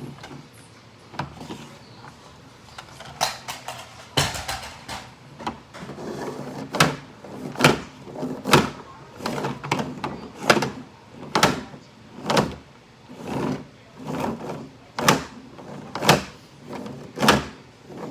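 Toy trucks knocking and clattering in a steady run of sharp knocks, about one a second, with softer scraping between them.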